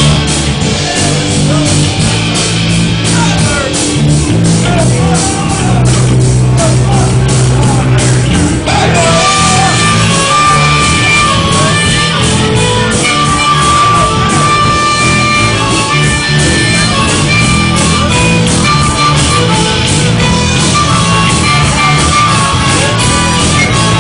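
Live rock band playing loudly in a large room, electric guitar over a steady drum beat.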